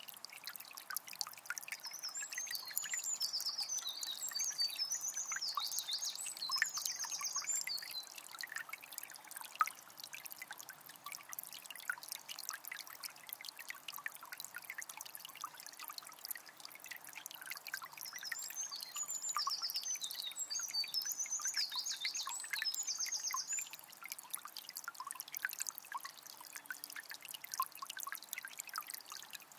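A forest river trickling and babbling steadily over stones, full of small splashes. A songbird sings a long warbling phrase of high notes twice, about two seconds in and again near twenty seconds.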